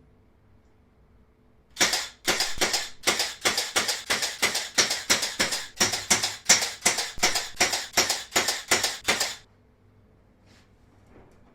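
A rapid, even series of about 25 sharp impacts, three or four a second, lasting about seven and a half seconds.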